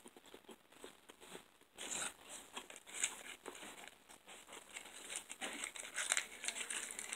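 Close-up chewing of crunchy food: irregular small crunches and mouth clicks, louder and busier from about two seconds in.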